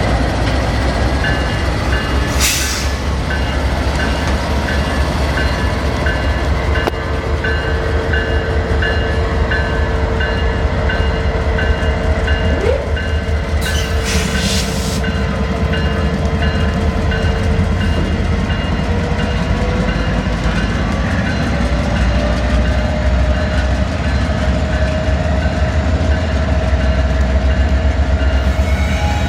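A train rolling by with a heavy, continuous low rumble, over a steady repeating high ding about twice a second. A long tone rises slowly in pitch in the last third, and there are two short noisy bursts, one early and one near the middle.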